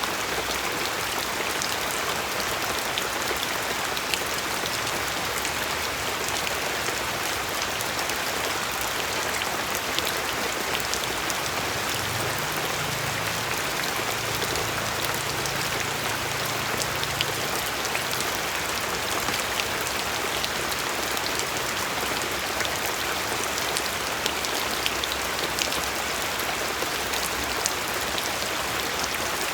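Steady rain falling, with individual drops pattering and ticking on a surface throughout.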